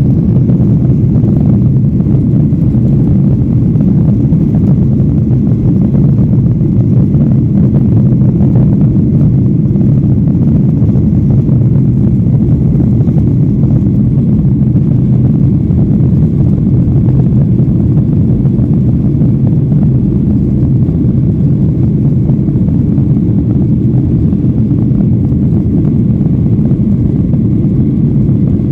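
Boeing 737-800's CFM56 jet engines heard inside the passenger cabin: a loud, steady low rumble that does not change.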